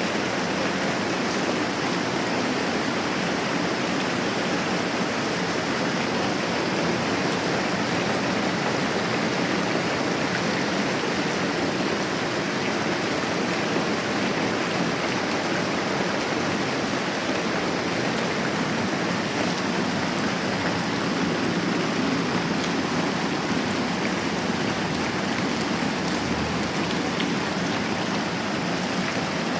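Moderate rain falling steadily, an even hiss with no let-up.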